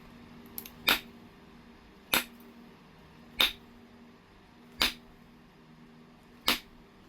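Flintknapping on heat-treated Oregon jasper: five sharp clicking strikes as flakes come off the stone, about one every second and a half.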